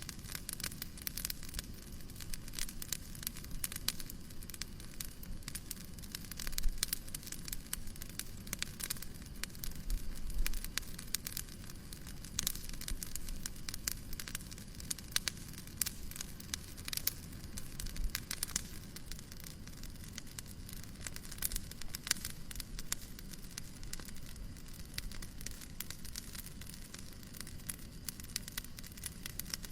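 Fireplace crackling: a constant scatter of small sharp pops and snaps over a steady hiss of white noise, with a couple of soft low thumps about 7 and 10 seconds in.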